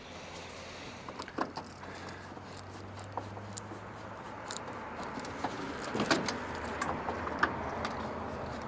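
Scattered light clicks and metallic rattles of hand tools and small parts as interior trim and screws are taken off an old car, a few sharper taps among them.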